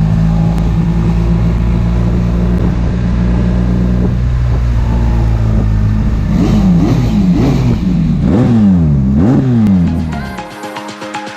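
BMW R 1300 GS boxer-twin engine running steadily, then revving up and down several times. About ten seconds in it gives way to electronic music.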